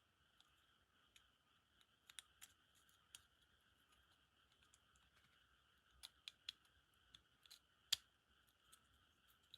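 Faint, scattered small clicks and taps of tools and small parts being handled while a Tomica die-cast toy car is taken apart, with a quick cluster about six seconds in and the sharpest click about a second later.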